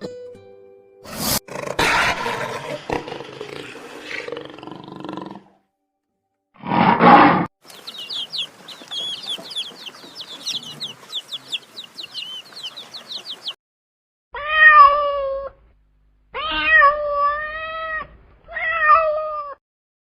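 A run of separate animal sounds: a rough, noisy stretch, then a short loud burst, then several seconds of rapid high-pitched chirping, and finally a cat meowing three times, each meow about a second long and wavering in pitch.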